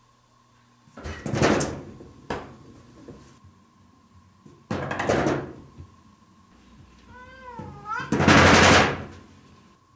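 A cat knocking on a wooden-framed sliding door, rattling it in rapid bursts of knocks, about four bursts. A short meow comes just before the last and loudest burst.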